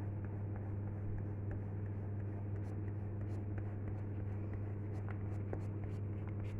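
Colouring strokes scratching on paper with a steady low electrical hum underneath.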